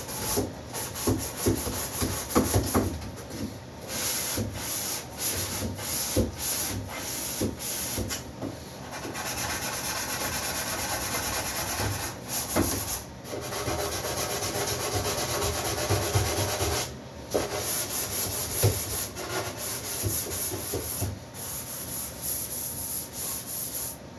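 Wood being sanded: a run of uneven back-and-forth rubbing strokes, with a steadier, unbroken stretch of sanding through the middle.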